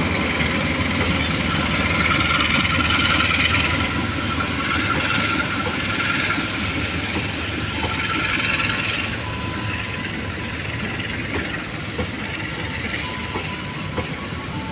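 Passenger train's stainless-steel coaches rolling past: a steady rumble and clatter of wheels on rail that slowly fades, with faint thin squeals coming and going in the second half.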